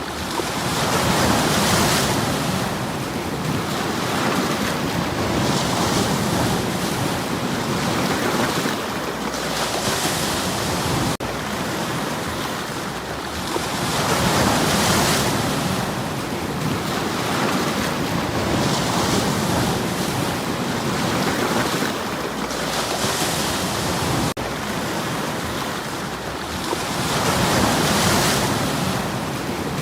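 Sea waves breaking and washing over a stony shore. Each wave swells into a hissing surge about every four seconds, over a steady rumble of surf.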